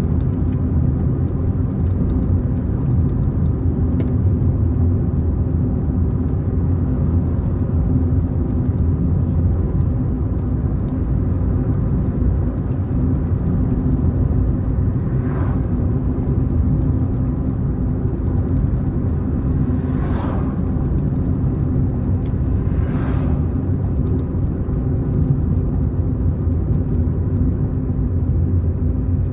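Steady low rumble of a car being driven on the road, engine and tyre noise together. Three brief whooshes rise and fall over it about halfway through and a little later.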